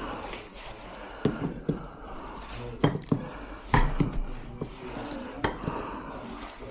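Metal tools and lock parts being handled during lock fitting: a series of sharp clinks and knocks, irregularly spaced, the loudest a few seconds in.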